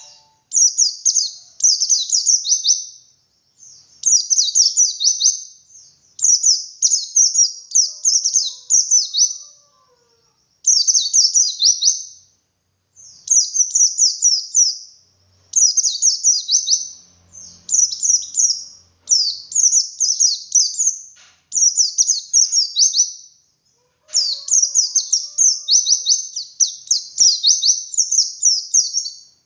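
A white-eye (pleci) singing its long 'ngalas' song. It gives phrase after phrase of rapid, high, twittering notes, each phrase a second or two long, with brief pauses between them.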